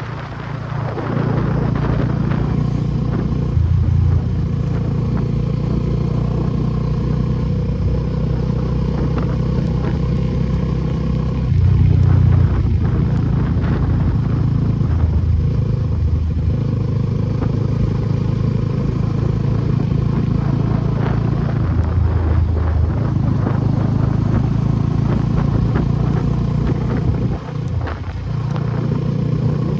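Suzuki Gixxer SF250's single-cylinder engine through an aftermarket Akrapovic exhaust, running steadily on the move. The throttle rises briefly about 4 and 12 seconds in, and there is a short dip near the end.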